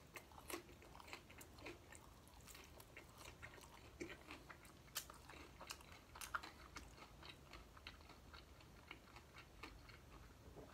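Faint close-up chewing of a fried chicken taco in a crisp shell: scattered soft crunches and wet mouth clicks at an irregular pace.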